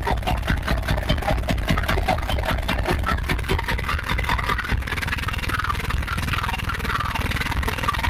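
Car audio subwoofers playing loud, heavy bass music. There is a fast beat for the first few seconds, then a steadier deep rumble.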